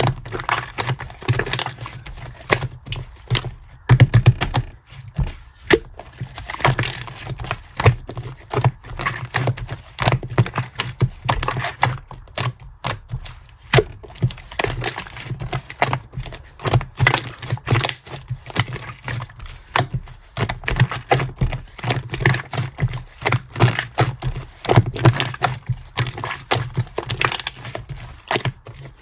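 Clear slime being squished and mixed by hand, giving a steady run of sticky clicks, crackles and small pops from trapped air.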